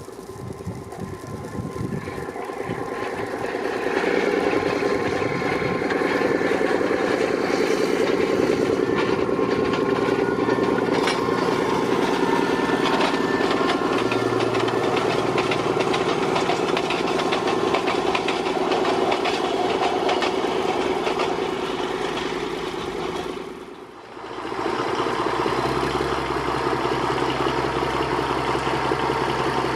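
Narrow-gauge diesel train running, growing louder over the first few seconds and then steady. It breaks off about 24 seconds in, and a diesel engine running steadily with a deeper hum follows.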